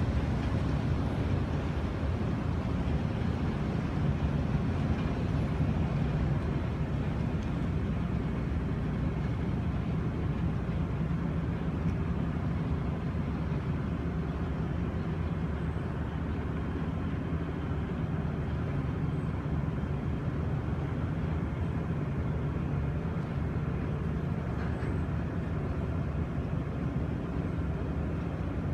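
Steady low drone of a car ferry's engines, with an even rushing noise over it.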